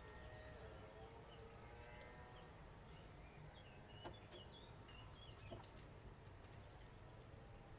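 Near silence with faint bird chirps in the background and a couple of soft clicks.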